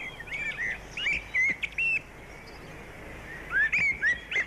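Bird calls: quick runs of short, high chirps and whistled notes that hook up and down in pitch, a burst over the first two seconds and another near the end.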